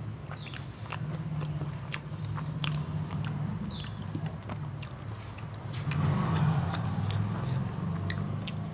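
A person chewing and biting food close to the microphone, with scattered small clicks of a fork against a pan. A low steady rumble runs underneath and swells about six seconds in.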